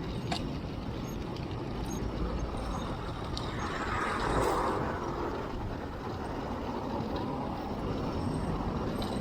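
Wind rumble on a chest-mounted action camera's microphone and road noise while riding a road bike in traffic, with a few light clicks. A louder swell of traffic noise comes about four seconds in.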